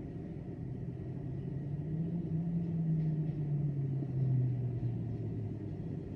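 Low engine rumble over steady station ambience. The engine's hum swells in the middle and slowly falls in pitch as it passes.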